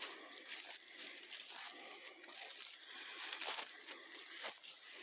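Footsteps crunching and crinkling through dry leaf litter, in an uneven walking rhythm with a few louder steps a little past the middle.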